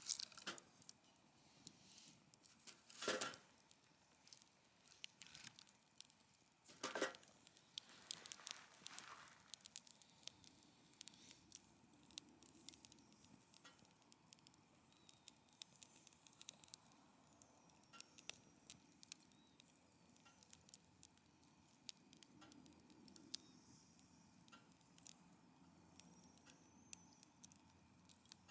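Wood fire crackling steadily with many small sharp snaps, and two louder pops about three and seven seconds in.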